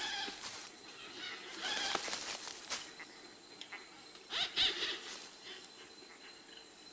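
Male cocks-of-the-rock calling at their display lek: harsh, squawking calls in three bouts, the loudest about four and a half seconds in.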